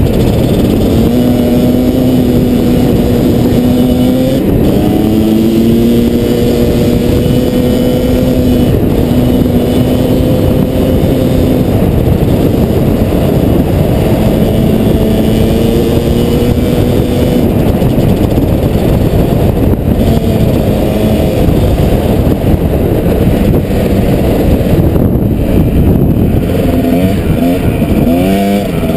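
Kawasaki KDX220 two-stroke single-cylinder dirt bike engine running under way. Its note holds steady for a few seconds at a time, then shifts up or down as the throttle and gears change, and it revs up sharply near the end.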